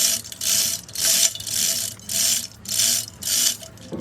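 Rhythmic scraping strokes, hissy and repeated at roughly one or two a second, as from a hand tool worked back and forth.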